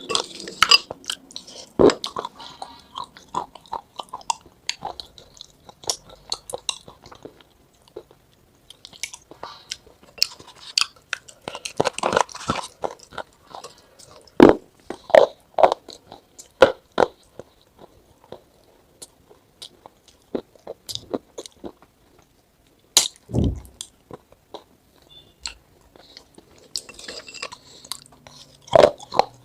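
Someone biting and crunching something hard and chewing close to the microphone: irregular bursts of crisp crunches with short pauses between bites.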